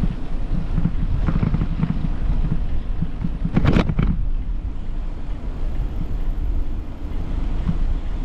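Wind buffeting the microphone as a steady low rumble, with a brief louder rustle about three and a half seconds in.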